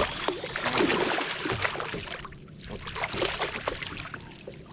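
Water splashing and sloshing at the side of a kayak in two spells, as a hooked bass thrashes at the surface while it is fought to the boat.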